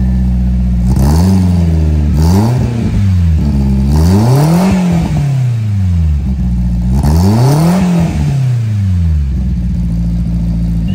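Subaru Sambar's 658 cc four-cylinder engine idling and revved up and down four times through its freshly fitted aftermarket exhaust. The pitch rises and falls with each rev, and the engine settles back to a steady idle near the end.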